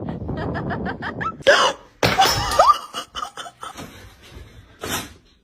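A person laughing in quick, even pulses, followed by a few short, loud, noisy bursts.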